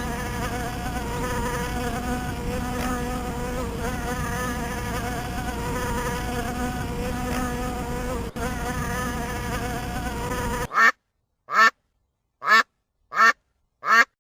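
Flying insect buzzing in a steady drone with a slightly wavering pitch. About ten and a half seconds in it cuts off, and five short calls, each falling in pitch, follow under a second apart.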